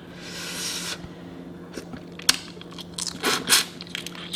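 Close-up eating of a seafood boil: biting, crunching and chewing, with a few sharp cracks and clicks.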